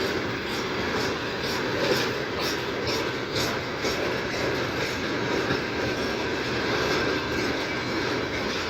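Freight train wagons rolling past at speed: a steady rumble of steel wheels on rail, with repeated clicks as the wheels cross rail joints.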